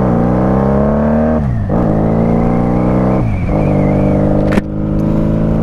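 1995 Honda Magna VF750C's V-four engine through Jardine straight drag pipes, pulling with rising pitch and shifting up twice, about a second and a half and just over three seconds in. A single sharp click about four and a half seconds in.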